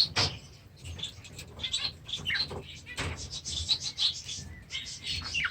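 A group of young pet parrots chirping and chattering in many short, quick calls, each sliding down in pitch, with a sharp click at the very start.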